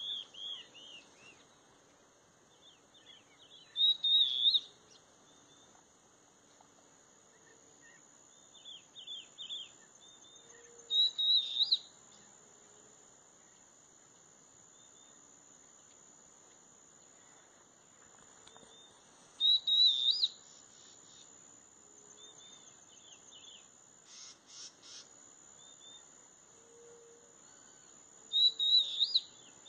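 A bird sings a short, loud, high chirping phrase four times, roughly every eight seconds, with softer chirps in between, over a steady high-pitched insect drone.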